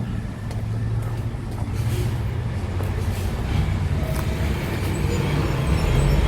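A motor vehicle's engine running steadily with road noise, growing louder over the last couple of seconds.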